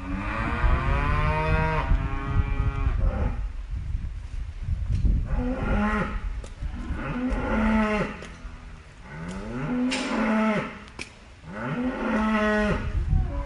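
Cattle mooing: one long moo at the start, then a series of shorter moos through the rest of the stretch, over a steady low rumble.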